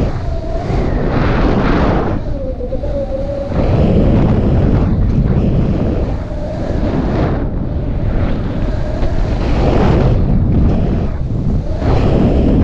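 Wind buffeting the microphone during a paraglider flight: a loud rushing noise that swells and eases every second or two, with a faint thin whistle coming and going.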